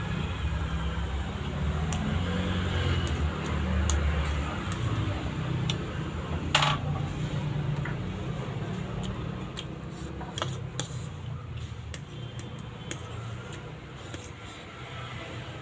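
Close-up eating of chow mein: uneven chewing noises with many small clicks of utensils on a plate, and a sharper clink about six and a half seconds in.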